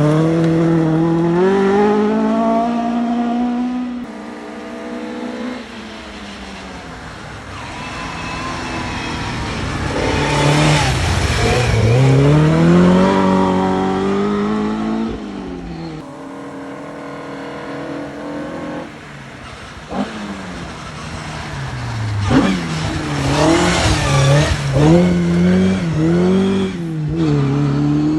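Rally cars on a forest special stage coming through one after another. Each engine revs hard, its pitch climbing and dropping through gear changes and throttle lifts. The loudest pass is about halfway through, and there are quick rev blips near the end.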